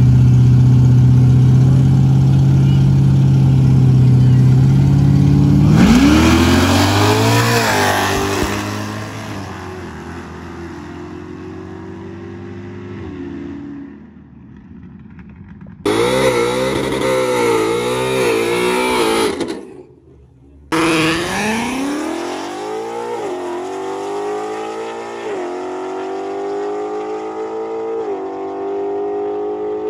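Drag-racing muscle cars, a Dodge Challenger and a Chevrolet Camaro, with engines held at high revs on the line, then launching. The engines climb in pitch through several gear shifts and fade down the track. After a cut, a second run follows: loud wavering revs, then another launch rising through the gears.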